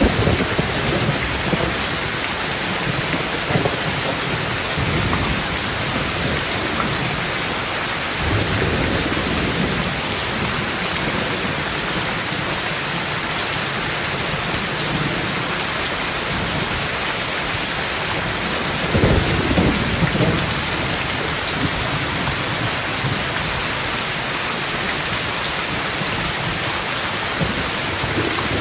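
Heavy rain falling steadily in a thunderstorm, with low rolls of thunder rumbling under it. The thunder swells near the start, again about a third of the way in, and loudest about two-thirds through.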